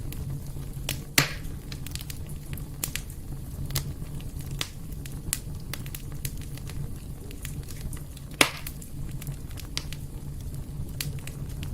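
Wood fire burning in a fireplace: a steady low rumble of flames with scattered crackles, and two louder pops, one about a second in and one about eight seconds in.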